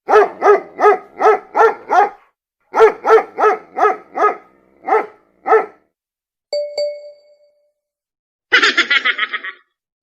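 A dog barking rapidly, about three barks a second, in two runs, followed by a quick two-stroke ding of a bell and then a short buzzing sound near the end.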